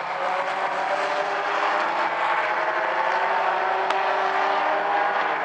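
Mini stock race cars running at speed around the oval track, several engines sounding together at slightly different pitches in a steady blend.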